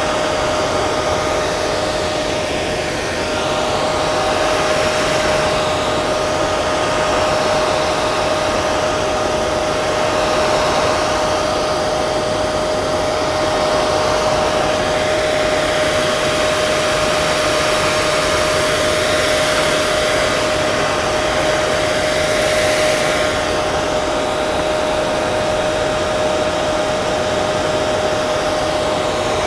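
Hair dryer running steadily: a constant rush of blown air with a steady motor whine under it.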